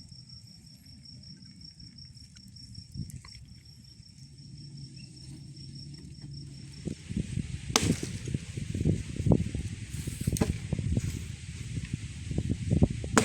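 Campfire crackling and popping, quiet at first and then much louder and denser with sharp snaps from about seven seconds in. A faint, high, steady trill runs through the first half.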